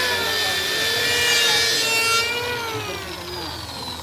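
A power tool grinding metal, running steadily with a whine whose pitch wavers under pressure over a harsh hiss.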